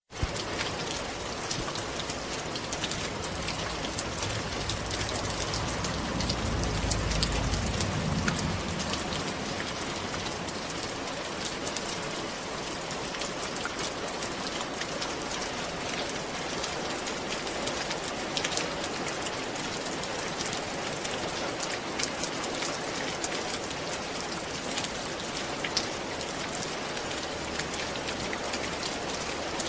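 Steady rain falling on a roof, a dense even hiss with many separate drops ticking sharply. A low rumble swells and fades about five to nine seconds in.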